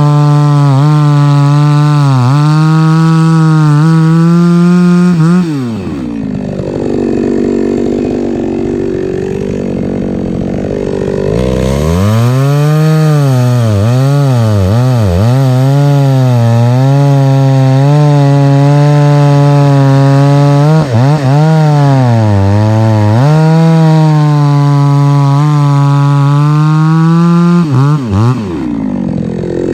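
Two-stroke chainsaw cutting logs for firewood: the engine runs at high revs with its pitch sagging and recovering as the chain bites. It drops to idle about six seconds in, revs back up about twelve seconds in for a second long cut, and falls back to idle near the end.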